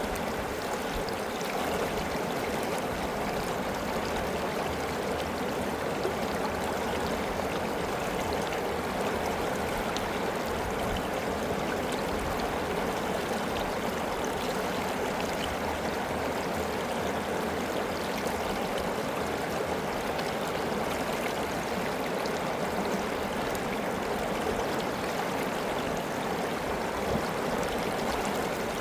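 River water flowing steadily, a continuous rushing and gurgling over the whole stretch.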